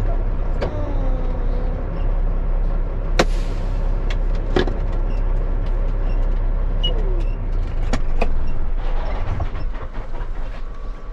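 Dump truck's diesel engine idling steadily, with a few sharp clicks and knocks over it.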